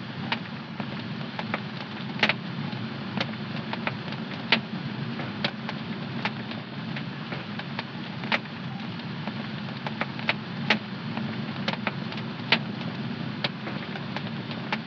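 Wood fire in a home fireplace crackling: a steady low rush of burning with irregular sharp pops and snaps, about one or two a second.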